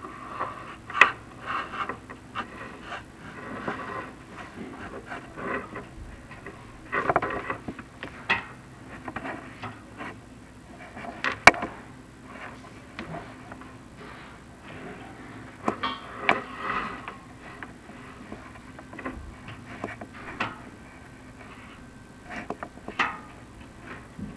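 Irregular knocks and scrapes from a chimney inspection camera being worked down a clay-tile flue, rubbing against the tile walls; several sharp knocks stand out, the loudest a little over halfway through.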